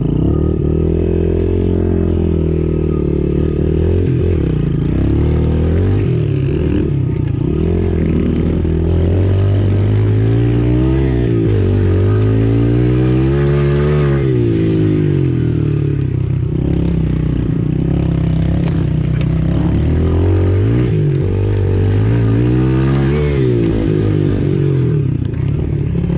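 Pit bike engine revving up and dropping back over and over as the bike is ridden around a dirt track, its pitch rising and falling every few seconds.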